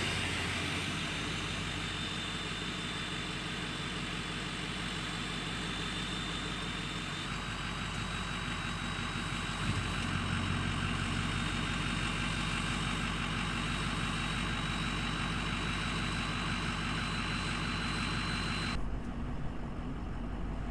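Ford F-350 diesel engine idling steadily, heard from inside the truck's cab, with a thin steady high whine above it.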